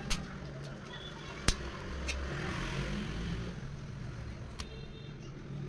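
Low steady rumble of street traffic, with a few sharp clicks, the loudest about one and a half seconds in.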